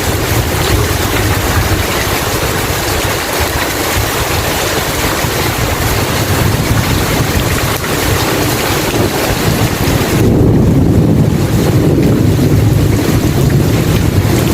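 Heavy rain falling steadily over a deep, continuous rumble of thunder; the rumble grows louder about ten seconds in.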